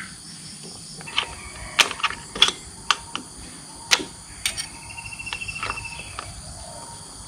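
Sparse light metallic clicks and taps of a screw and hand tools being handled while fitting a hose to a motorcycle engine, with a quick run of small ticks about five seconds in.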